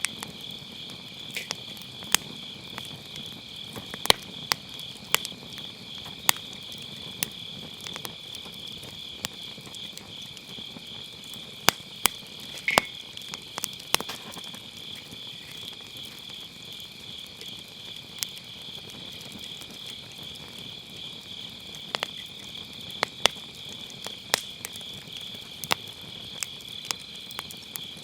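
Crickets trilling steadily in a high, finely pulsing chorus, over a wood fire in a fire pit that crackles with irregular sharp pops.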